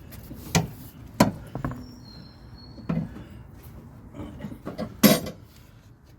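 Van jack being wound up as it takes the vehicle's weight: a handful of irregular sharp knocks and clicks, the loudest about five seconds in, with a brief high squeak about two seconds in.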